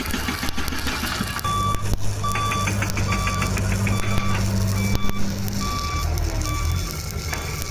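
Short electronic beeps repeating at a steady pace, a little faster than one a second, over a noisy background. A steady low hum starts about a second and a half in and stops about two thirds of the way through.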